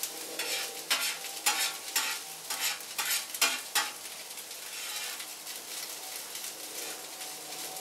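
Food frying and sizzling while being stirred and scraped with a utensil: a quick run of sharp scrapes and clacks for about the first four seconds, then steady sizzling.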